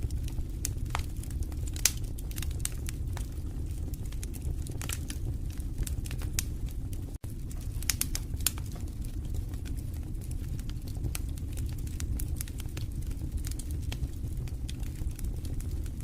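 Fireplace fire crackling, with irregular sharp pops and snaps over a steady low rumble of the flames; the sound cuts out for an instant about seven seconds in.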